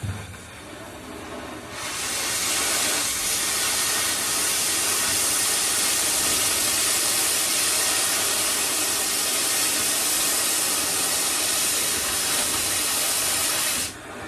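Oxy-fuel cutting torch hissing steadily as it blows through steel plate. The hiss comes on sharply about two seconds in and cuts off suddenly near the end.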